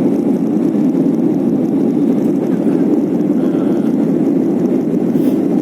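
Steady cabin roar of a Boeing 737 climbing after takeoff: the turbofan engines and the rush of air around the fuselage, heard from inside the passenger cabin as an even, low rumbling noise.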